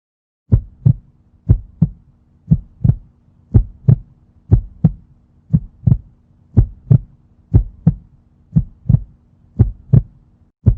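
Heartbeat sound effect: paired low thumps, lub-dub, repeating steadily about once a second, over a faint steady hum.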